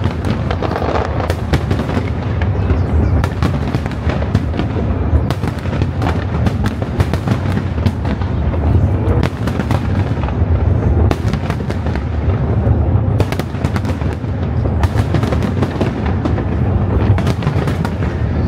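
Fireworks display: a dense, continuous barrage of shell bursts and crackling over a steady low rumble.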